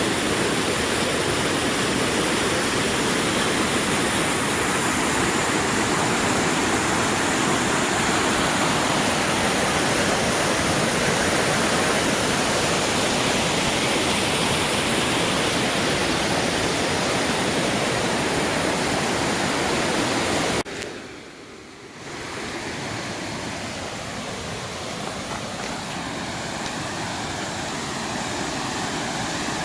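Waterfall, a steady rush of falling water. About two-thirds of the way through it cuts out for about a second and comes back a little quieter, slowly building again.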